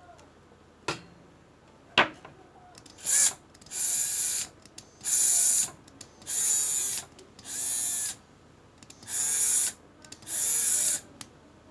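Small brushed DC motor from a cordless drill, running on makeshift soldered contacts in place of its carbon brushes, spinning up in about seven short bursts, each under a second, as it is switched on and off. A couple of sharp clicks come before the first burst.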